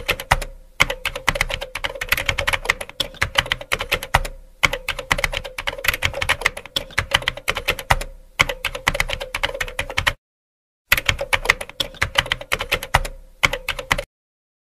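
Rapid, irregular clicking and tapping, like fast typing, that breaks off abruptly into silence twice near the end.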